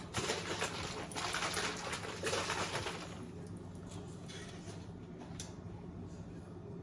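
Clamato poured from a bottle into a glass, with short breaks about one and two seconds in; the pouring stops about three seconds in, leaving a faint low hum.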